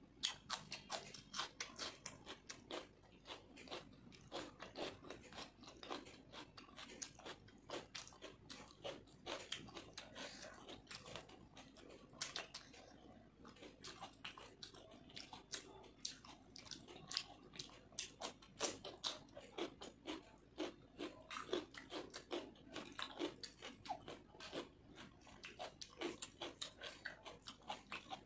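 Close-miked chewing and biting: a person eating fried rice and chicken curry by hand, with many quick wet mouth clicks and crunches, several a second.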